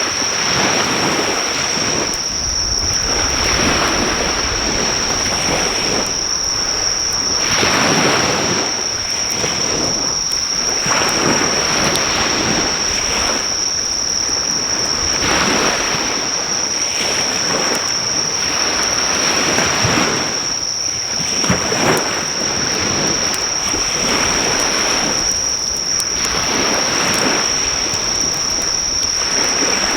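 Sea waves washing onto the beach, the surf swelling and falling every three to four seconds, over a continuous high-pitched drone of insects calling. The driftwood fire's crackle is barely heard, as a few faint pops under the surf.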